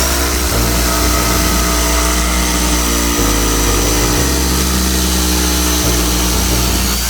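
An electric power tool runs steadily for about seven seconds, over a background music bass line.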